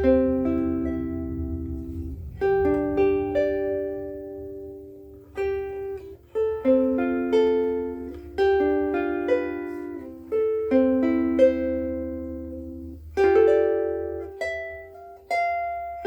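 Pono Kalele curly mango soprano ukulele with Aquila Reds strings, fingerpicked: chords and melody notes plucked in a slow tune, each ringing out with long sustain.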